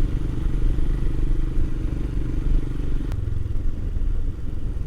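Royal Enfield Himalayan's single-cylinder engine running steadily on the move. A sharp click comes about three seconds in, and the engine note changes right after it.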